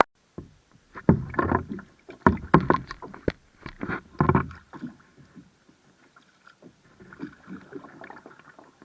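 A small paddle boat being paddled: a cluster of loud knocks and water noises in the first half, then quieter, scattered knocks.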